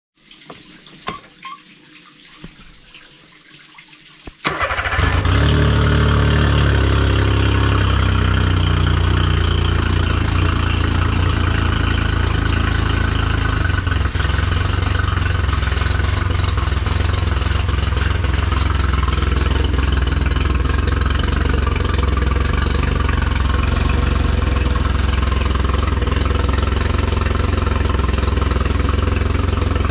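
Honda 50 hp three-cylinder fuel-injected four-stroke outboard motor starting: a few clicks, then it catches about four seconds in and runs steadily.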